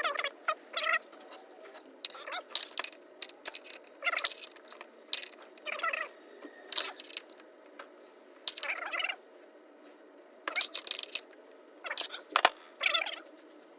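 Metal engine parts and hand tools clinking, tapping and scraping in irregular bursts, several sharp knocks among them, during hand work on a stripped-down golf-cart engine.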